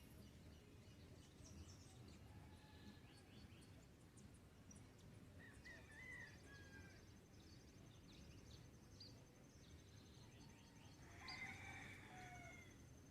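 Faint dawn bird chorus: scattered chirps and short calls, with a louder call near the end. About halfway in, a high, rapidly pulsing trill starts and holds steady. A low background rumble runs underneath.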